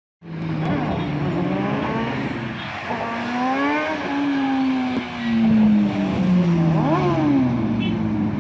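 Several motorcycle engines revving at once, their pitches rising and falling and crossing each other; the sound cuts in suddenly just after the start.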